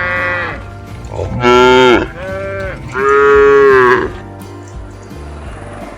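Cattle mooing: several drawn-out moos in turn, the loudest about a second and a half and three seconds in, with a softer one between.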